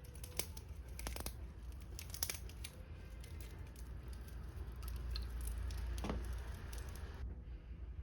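Firewood logs burning in a bonfire, crackling with irregular sharp pops over a steady low rumble.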